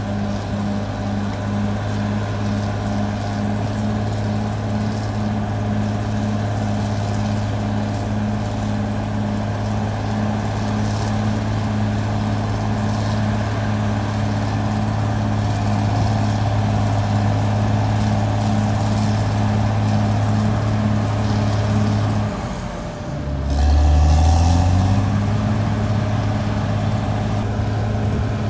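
Caterpillar D6R XL bulldozer's diesel engine running steadily at work. About 22 seconds in, the engine note dips and drops low, then climbs back up and settles at a steady pitch again.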